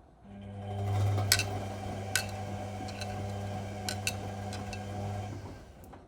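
Whirlpool Indiana 1400 washing machine's motor turning the drum for about five seconds during the wash, a steady hum that starts and stops between pauses. A few sharp clinks and taps sound over it as the laundry tumbles.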